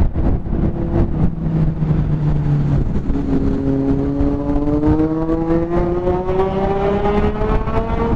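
Motorcycle with an Akrapovic aftermarket exhaust running loudly, its pitch climbing steadily over the last five seconds as it accelerates.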